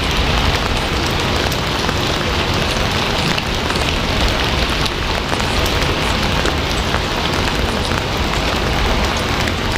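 Steady heavy rain, a dense even hiss with many small drops ticking on a surface.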